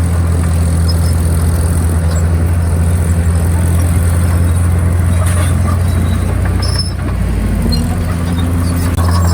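Komatsu D51PX crawler bulldozer's diesel engine running steadily and loud, with a short dip just before the end.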